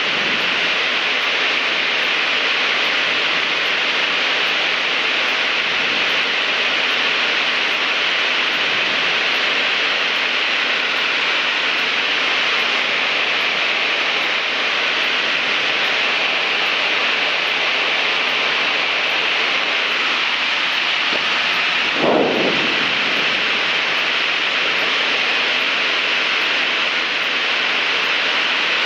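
Cessna 152 in flight heard through the cockpit intercom and radio audio feed: a steady, even hiss between radio calls, with one brief blip about two-thirds of the way through.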